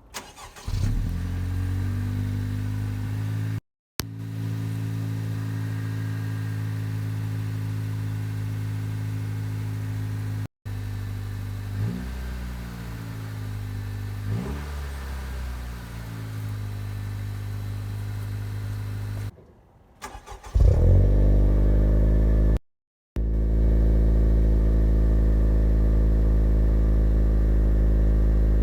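10th-generation Honda Civic's turbocharged 1.5-litre four-cylinder cold-started and fast-idling through the stock exhaust, with two short throttle blips in the middle. About 20 seconds in it is cold-started again through a custom Sporttig cat-back exhaust and idles noticeably louder and deeper.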